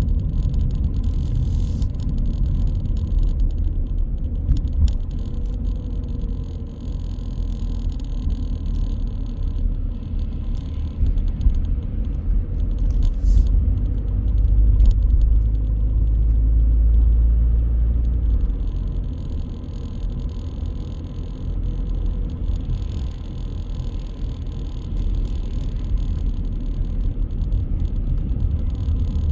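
Car driving through city streets: a steady low rumble of engine and road noise, heavier for a few seconds in the middle, with a few light clicks and rattles.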